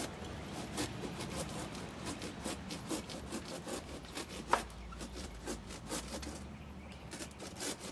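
Saw cutting through a papaya tree trunk in quick, even back-and-forth strokes, with one sharp knock about four and a half seconds in. The trunk is hollow and rotting after a hard freeze.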